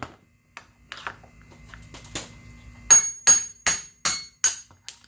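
Hammer blows ringing on metal, knocking an old bearing out of a scooter wheel hub. A few light taps come first, then six quick, evenly spaced strikes in the second half.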